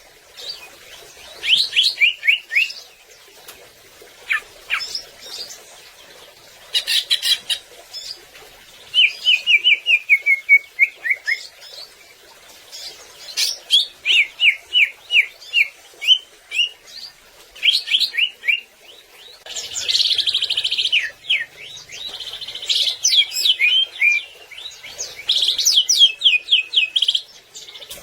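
Cucak ijo (greater green leafbird) singing loudly in repeated phrases of quick, falling chirps and trills, with short pauses between phrases.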